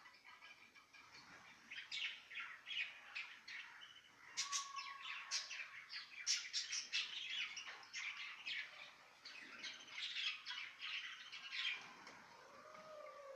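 A flock of caged small Australian parrots chattering: many overlapping quick chirps and squawks, getting busier and louder about four seconds in.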